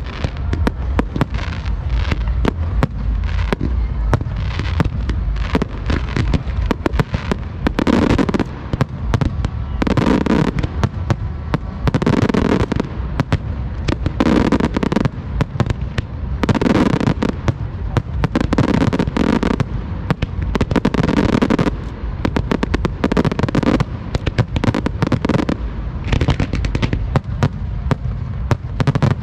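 Fireworks display: aerial shells firing and bursting in a rapid, continuous barrage of bangs, with heavier bursts about every two seconds through the middle.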